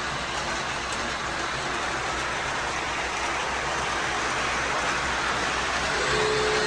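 Steady hiss of rain falling on a roof, with no break in it. About six seconds in, a brief steady tone on two close pitches sounds over it.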